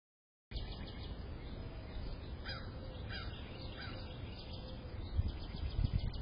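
Outdoor sound through a security camera's microphone: a steady hiss with three short falling bird calls about a second apart. Low thumps start near the end. The sound begins after half a second of silence.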